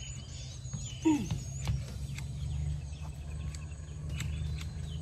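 Birds chirping over a steady low hum, with a short cry sliding down in pitch about a second in and a few light clicks.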